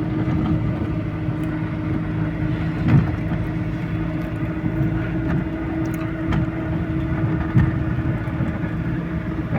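GAZelle light truck driving, heard from inside the cab: a steady engine hum over road noise, with two brief thumps about 3 seconds and 7.5 seconds in.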